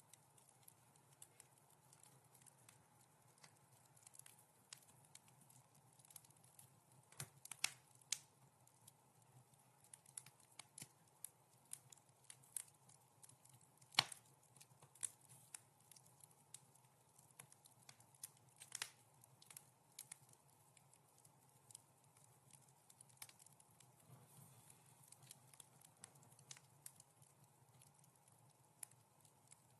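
Wood fire crackling in a fireplace: irregular sharp pops and snaps over a faint steady background, with the loudest snap about halfway through.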